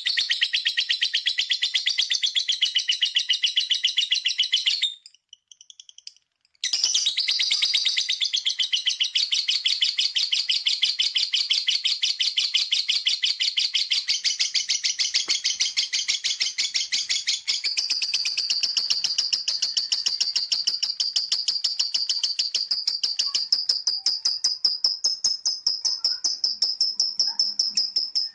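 Lovebird's 'ngekek': a long, very fast chattering trill of high notes. It breaks off about five seconds in, starts again a second and a half later and runs on for over twenty seconds, turning into a thinner, higher trill about halfway through.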